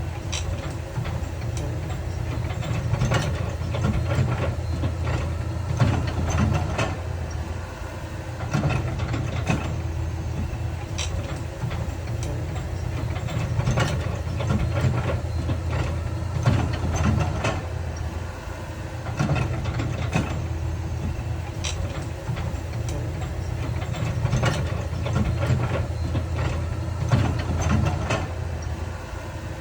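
Heavy diesel earthmoving machinery running steadily, with frequent clanks and knocks of metal and rock throughout.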